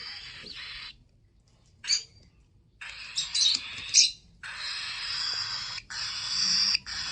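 Young parrots calling: a string of harsh, hissing screeches, each about a second long, with short sharp chirps between them about two seconds in and again between three and four seconds in.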